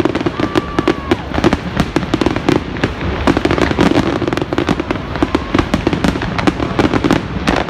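Fireworks display going off: a dense, continuous run of rapid bangs and crackles, many a second.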